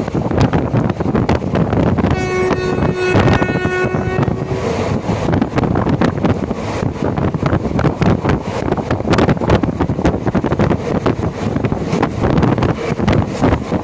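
Passenger train running, heard from on board: a steady rumble with rapid clattering of the wheels over the track, and wind buffeting the microphone. The train's horn sounds once, a steady chord held for about two seconds starting about two seconds in.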